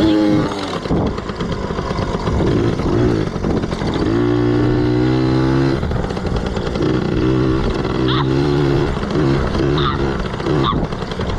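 Yamaha PW80 dirt bike's small two-stroke single-cylinder engine running under way, its pitch rising and falling with the throttle and holding steady for a couple of seconds midway.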